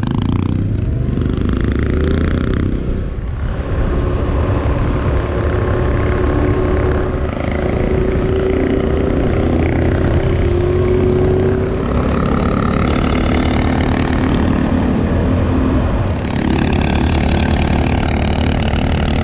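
Motorcycle engine running as the bike is ridden along, its pitch shifting a little with the throttle.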